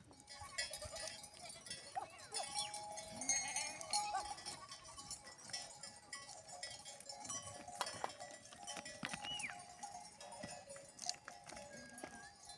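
A flock of sheep and goats bleating, many calls overlapping, with livestock bells clinking.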